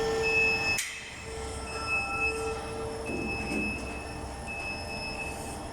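Workshop machinery running with a steady whine, and a higher tone that cuts in and out every second or so. There is a sharp click about a second in.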